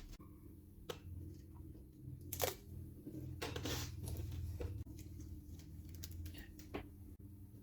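A few sharp clicks and light knocks of bicycle parts and hand tools being handled, over a low hum that stops about six seconds in.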